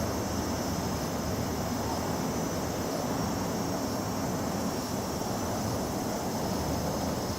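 A chorus of cicadas singing steadily in a high register, over a steady low rumble of outdoor noise.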